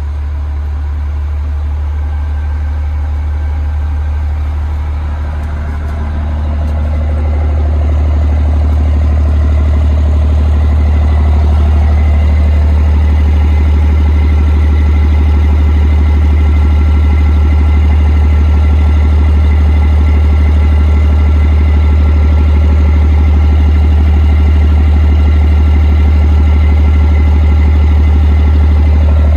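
Diesel engine of a 2006 Terex TA30 articulated dump truck running steadily with a deep hum. About six to eight seconds in it gets louder and its pitch lifts a little, then it holds steady.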